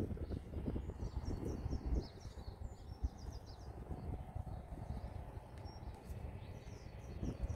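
Small birds chirping in a quick run of high chirps for about two seconds, with a few more later, over a low, uneven outdoor rumble.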